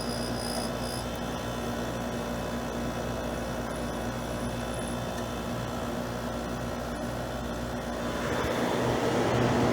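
Airtemp air conditioner running steadily: the compressor hums with a little noise under the rush of the fan. The sound swells louder about eight seconds in.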